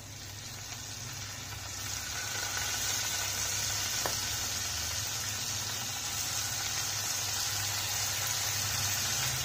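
Paneer cubes sizzling as they fry in butter and oil in a hot pan. The sizzle is steady and grows louder about two seconds in.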